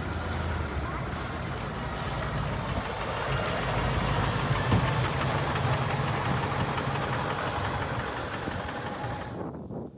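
Vintage bus engine idling steadily with a low, even drone. The sound cuts off abruptly just before the end.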